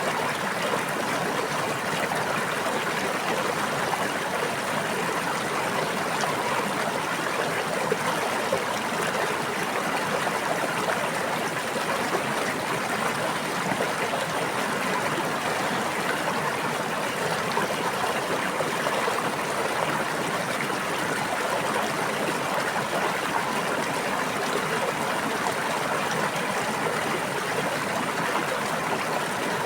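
Running water of a stream or brook, a steady babbling and trickling rush with no breaks.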